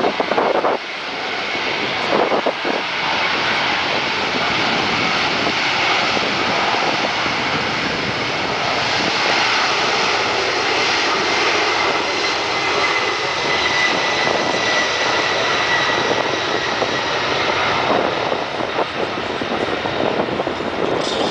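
Boeing 777-300ER's GE90 turbofan engines running at takeoff thrust during the takeoff run: a loud, steady rush of jet noise with a faint high whine that dips slightly lower midway.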